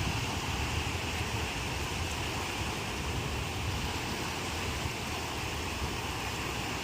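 Ocean surf: a steady wash of breaking waves, with wind rumbling on the microphone.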